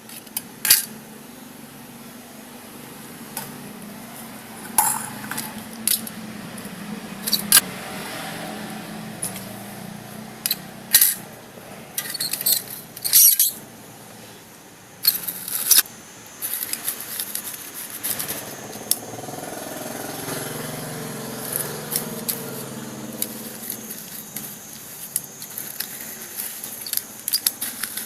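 Small metal parts and hand tools clicking and clinking as they are handled and fitted, in irregular sharp knocks over a steady low hum.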